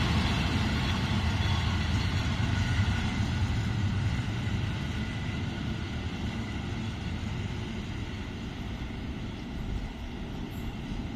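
Historic train hauled by an E.656 electric locomotive running on the rails, its rumble fading steadily as it pulls away.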